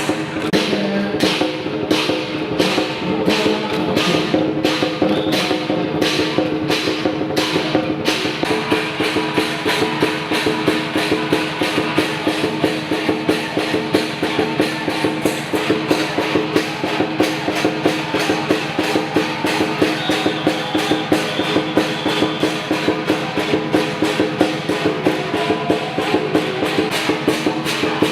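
Chinese lion-dance percussion playing live: a drum beaten in a steady rhythm with ringing cymbals and gong. The beat gets faster and denser about eight seconds in.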